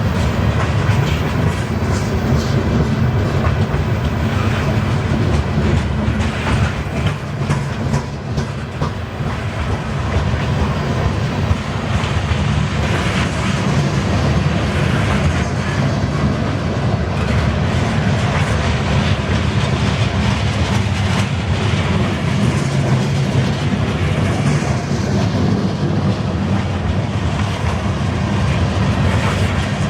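Freight cars of a CN train rolling past, steel wheels clacking over the rail joints in a steady, continuous rumble.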